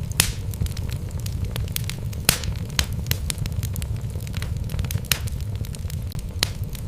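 Wood logs burning in a fireplace: a steady low rumble with irregular crackles and sharp pops. The loudest pops come just after the start and a little past two seconds in.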